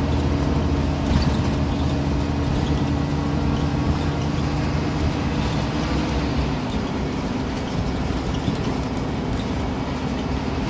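Interior of a Scania CN230UB Omnicity single-deck bus under way: a steady diesel engine drone and tyre and road noise heard from inside the cabin. The engine note drops slightly about two-thirds of the way through.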